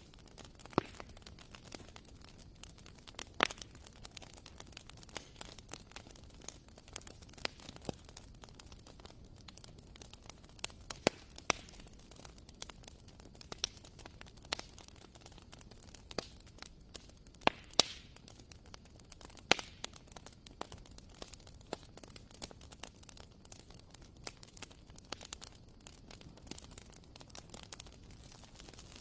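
Wood fire burning in a fireplace: a soft steady rush of flame with irregular sharp crackles and pops from the burning logs, a few of them much louder than the rest.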